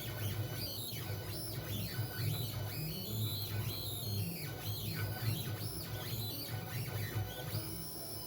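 Onefinity CNC's stepper motors whining as the gantry drives a pen through a drawing, the pitch sweeping up and down again and again as each short stroke speeds up and slows down, over a steady low hum.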